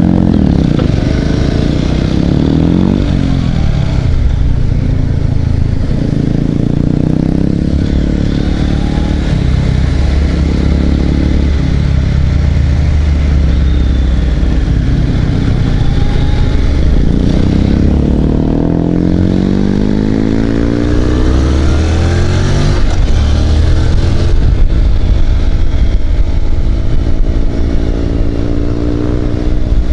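Motorcycle engine under way, pulling away and accelerating through the gears. The pitch rises in sweeps near the start and again about two-thirds of the way through, dropping at each gear change.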